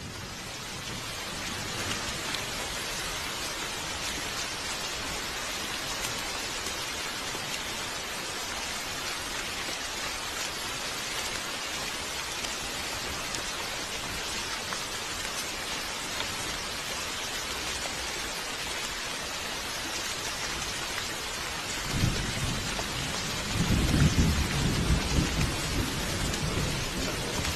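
Steady heavy rain falling, fading in at the start. Thunder rumbles low twice near the end, the second rumble louder.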